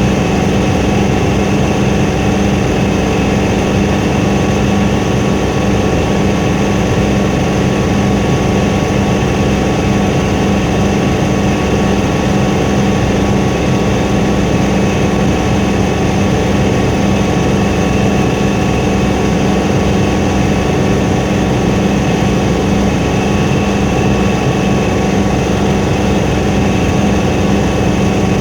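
Helicopter in flight heard from inside the cabin: a loud, steady engine and rotor drone with several held tones that do not change.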